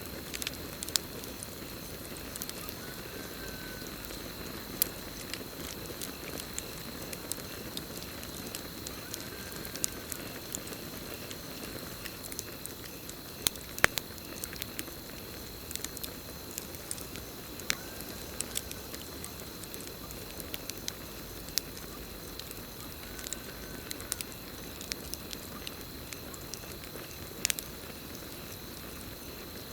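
Campfire burning, with a low rush of flames and irregular crackles and sharp pops from the burning wood. A steady high cricket trill runs behind it, and a faint short rising-and-falling call repeats four times.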